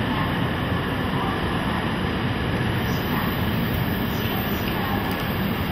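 Shinkansen train pulling slowly into a station platform and slowing to a stop, with a steady rumble of the train over the rails.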